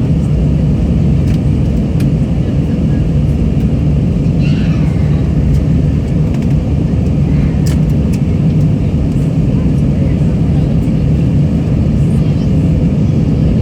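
Steady loud rumble of an airliner heard from inside the cabin: jet engines and airflow at power, a deep even roar with no breaks.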